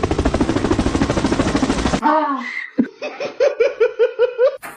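A fast, loud rattle for about two seconds, then a falling vocal glide and a run of about eight quick, evenly spaced 'ha-ha' laughs.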